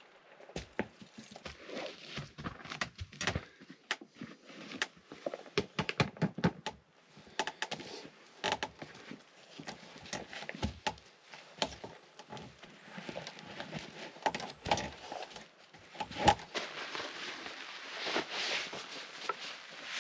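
Irregular clicks, knocks and light rattles of objects being handled, with a soft hiss building near the end.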